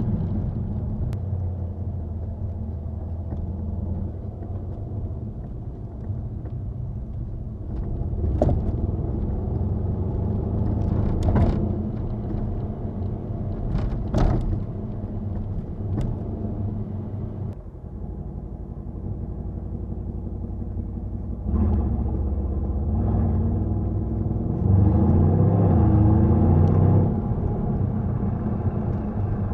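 Mercedes-AMG C63 S 4.0-litre twin-turbo V8 on its stock exhaust, driving along with a steady low rumble. It gets louder about twenty seconds in and again a few seconds later as it pulls harder, and there are a few short sharp clicks midway.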